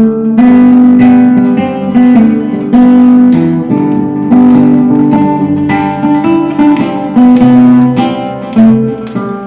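Instrumental acoustic guitar music, with plucked and strummed chords struck every second or so.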